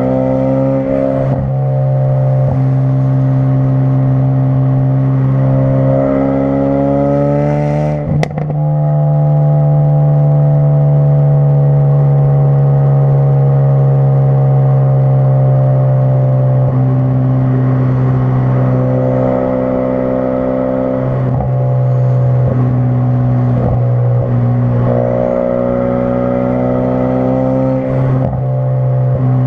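2016 Ford Focus RS's 2.3-litre turbocharged four-cylinder running through a custom-built exhaust under way. Its note climbs slowly and changes pitch in steps at gear changes, with a sharp break and a brief dip in loudness about eight seconds in.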